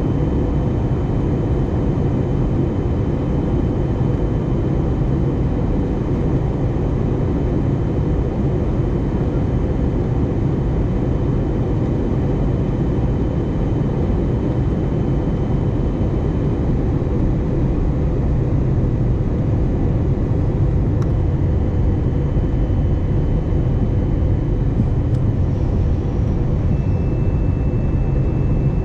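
Steady cabin roar of an Airbus A320neo airliner in flight, descending toward landing: airflow and engine noise heard from inside the passenger cabin. A faint high whine runs through it and steps slightly lower near the end, with a faint click about two-thirds of the way in.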